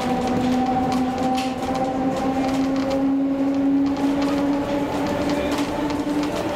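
Heritage train on the narrow-gauge Roslagsbanan running along the track: a steady running hum that rises slowly in pitch as it gathers speed, over a rumble with occasional clicks from the wheels.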